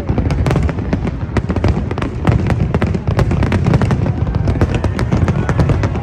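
Aerial firework shells bursting in a dense, rapid barrage: many sharp bangs and cracks, several a second, overlapping over a continuous low rumble.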